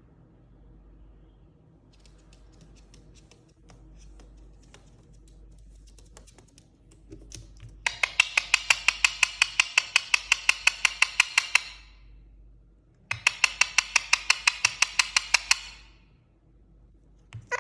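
Indian ringneck parakeet giving two long bursts of rapid, evenly repeated sharp calls, about five a second, each run lasting some three to four seconds, after several seconds of faint scattered clicks.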